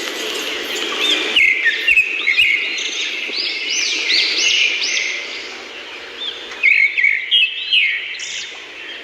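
Several birds chirping and twittering at once, many short high arching notes overlapping, with a few louder sharp chirps near the end.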